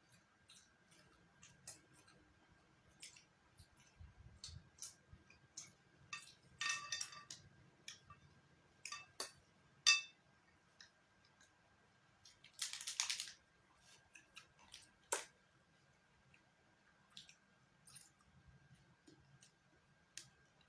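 Eating sounds: scattered clicks and clinks of utensils against dishes, one of them ringing briefly, with chewing and a short rustle about two thirds of the way through.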